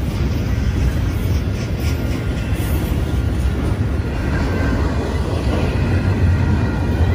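Double-stack container train of loaded well cars rolling past: a steady, loud rumble of wheels on rail.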